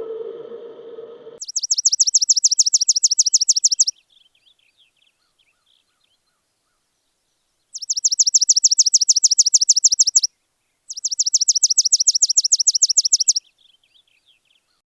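A songbird singing three trills, each a fast run of identical high notes lasting about two and a half seconds, with soft, quieter notes between them.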